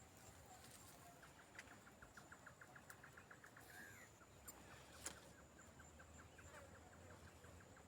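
Near silence: faint outdoor ambience with a quiet, fast, rhythmic ticking call, about eight a second at first and slower later, and a single sharp click about five seconds in.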